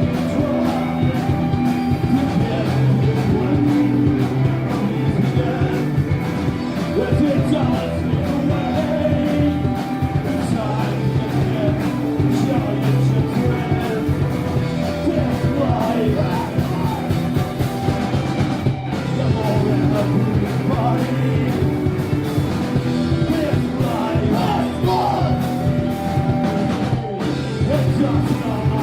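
Rock music with singing over electric guitar and a drum kit.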